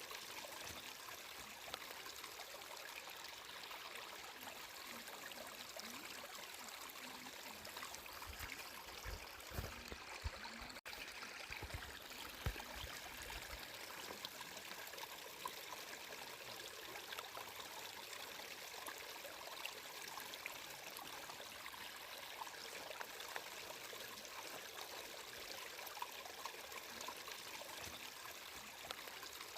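Steady flowing water, running and trickling like a stream, with some low bumping about eight to thirteen seconds in and a momentary cut in the sound near eleven seconds.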